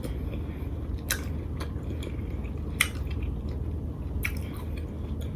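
A person chewing food close to the microphone, with wet mouth smacks and a few sharper clicks, about a second in, near three seconds and past four seconds.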